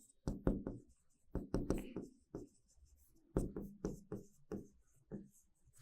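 Writing by hand: a string of short, irregular scratchy strokes with brief pauses between them, as a term is written out.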